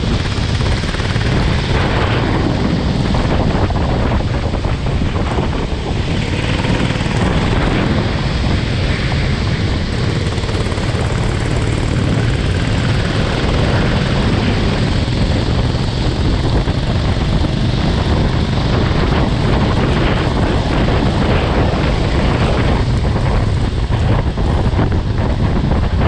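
Go-kart engine running at speed, with wind buffeting the microphone over a steady low rumble.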